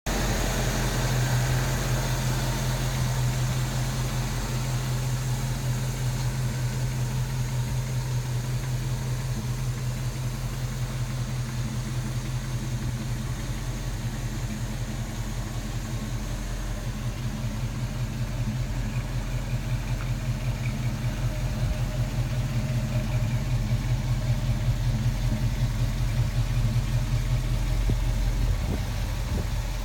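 1972 Chevrolet K10 pickup's 350 V8 with dual exhaust idling steadily, a low even hum.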